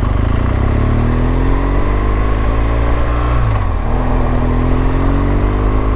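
BMW R1200 GS flat-twin boxer engine pulling under acceleration, its pitch rising, dropping sharply at an upshift about three and a half seconds in, then rising again.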